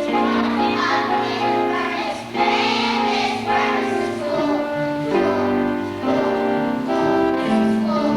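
Children's choir singing a song with instrumental accompaniment, holding long sustained notes.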